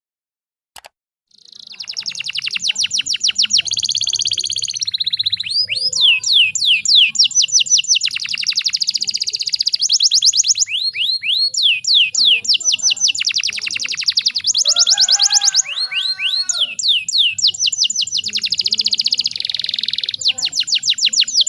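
Domestic canary singing: long runs of fast, rapidly repeated high notes and rolling trills, starting about a second and a half in.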